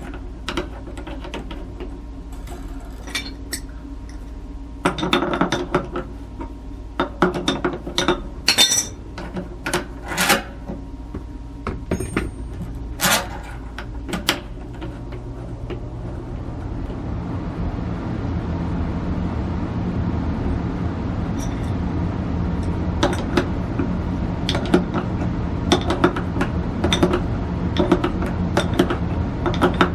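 Irregular metallic clinks and knocks of hand tools and metal parts being handled, over a steady low hum; the background grows noisier about halfway through.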